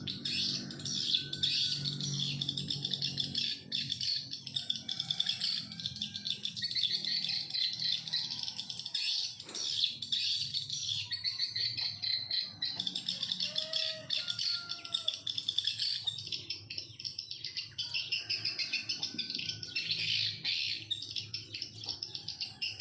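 Swiftlets twittering: a dense, unbroken high chirping, with short curved whistle notes lower down, as swiftlet calls fill a swiftlet house fitted with tweeter speakers.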